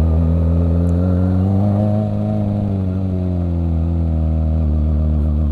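Kawasaki ZX-25R's 249 cc inline-four engine running under way at fairly steady revs; its pitch rises slightly and eases back down about two seconds in.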